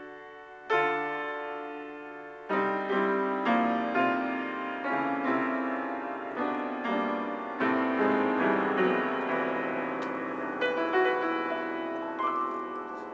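Piano improvisation: a chord struck about a second in and left to ring and fade, then from a couple of seconds in a flowing run of notes, several a second, over sustained, blurring chords.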